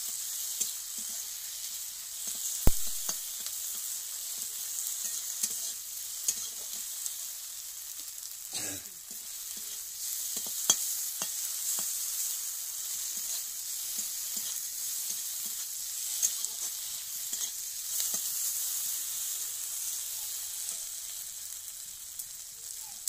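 Potatoes and poppy-seed paste sizzling in oil in a metal kadai, with a steady frying hiss, while a steel spatula scrapes and clacks against the pan as they are stirred; the loudest clack comes about two and a half seconds in.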